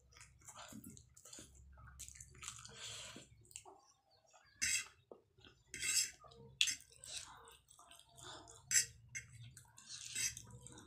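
Close-up wet chewing and slurping of chicken chow mein noodles, with a fork clinking and scraping on the plate. Several sharp, wet smacks stand out in the second half.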